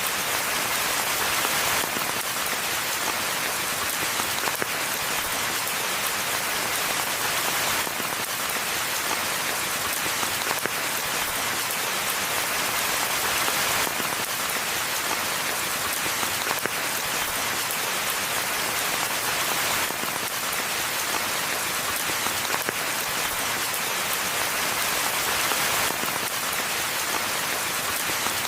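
Rain falling steadily in a forest, an even hiss of countless drops with no let-up. The same pattern comes round about every six seconds.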